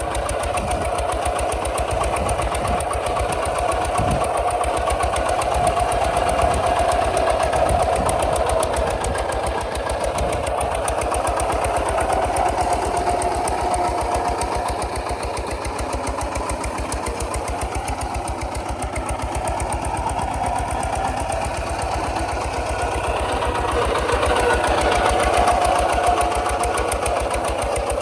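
Kubota RT 140 DI single-cylinder diesel engine running steadily with an even, rapid exhaust beat, swelling a little louder twice.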